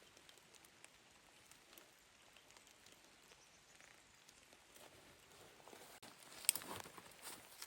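Faint footsteps crunching in snow, starting about five and a half seconds in, with one sharp click among them.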